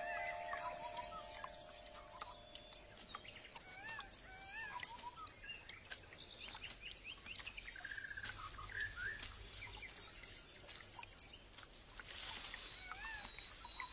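Birds chirping and calling in short rising-and-falling tweets, scattered throughout over faint forest ambience. A held flute note fades out in the first second or so, and a soft hiss comes in near the end.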